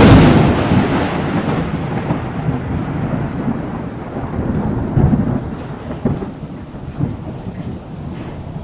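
Chopped mushrooms sizzling in hot oil in a nonstick frying pan while a spatula stirs them. The sizzle begins abruptly at full loudness and slowly dies down.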